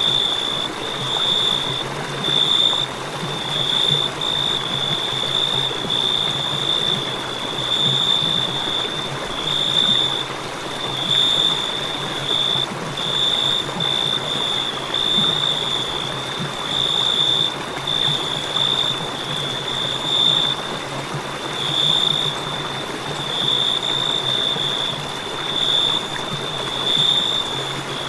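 Crickets chirping in a continuous high, shrill trill that swells in pulses about once a second, over a steady hiss.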